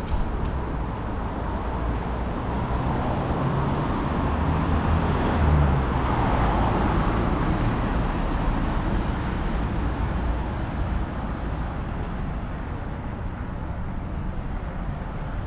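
Steady city street traffic noise, rising briefly about five to seven seconds in.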